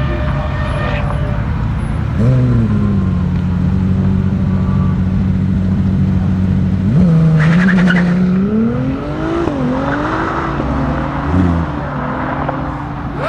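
Supercar engine held at steady high revs for a few seconds, then accelerating hard, the revs climbing and dropping back several times through upshifts.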